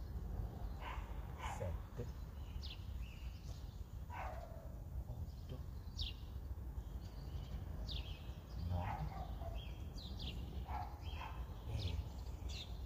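Outdoor birds chirping: short, high calls that fall in pitch, repeated every second or so, over a steady low background rumble.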